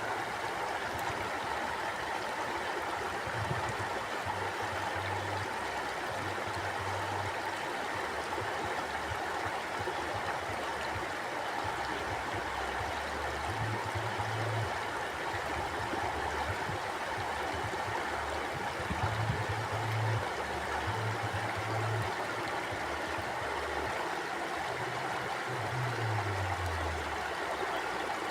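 Mountain stream flowing: a steady rush of water with irregular low gurgles.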